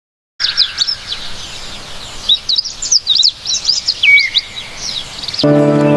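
Birds chirping and calling, many quick rising and falling notes over a light hiss, starting suddenly out of silence. Near the end music comes in with held notes beneath the chirping.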